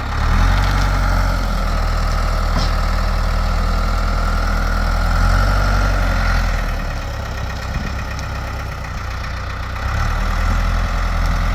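Backhoe's diesel engine working under load as it lifts and carries a tree, picking up right at the start with a steady high whine over it, easing off around the middle, and picking up again near the end.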